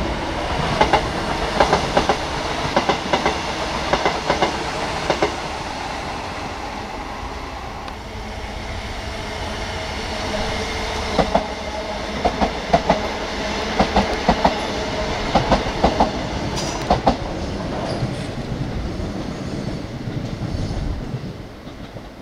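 Northern class 333 electric multiple unit passing close by, its wheels clacking over rail joints in repeated clusters over a steady running rumble. The sound falls away near the end as the train moves off.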